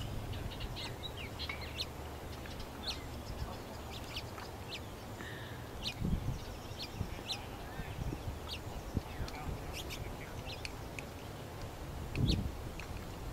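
Birds chirping: scattered short, high calls over a steady low background hiss. A brief low sound comes about six seconds in and again near the end.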